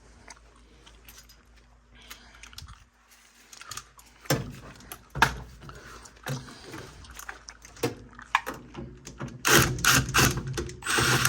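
Sheet-metal furnace parts, screws and hand tools being handled: a few quiet seconds, then scattered metallic clicks and knocks, with a denser, louder run of clatter near the end.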